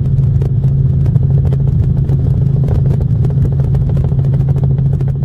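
Steady helicopter engine and rotor noise heard from inside the cabin, a constant low drone with dense irregular ticking over it.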